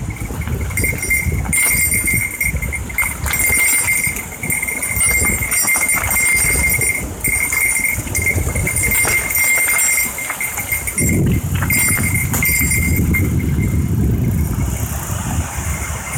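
Mountain bike ridden over a rough gravel trail: tyres rumbling and the bike rattling over stones, with a high buzzing tone that cuts in and out every second or two.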